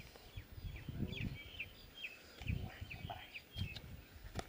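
Birds chirping in quick short calls again and again, with a few dull low thumps about a second in, in the middle and near the end.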